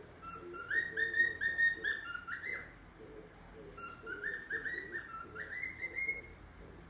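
Pet cockatiel whistling two phrases of short, stepped, rising notes, the second starting about four seconds in.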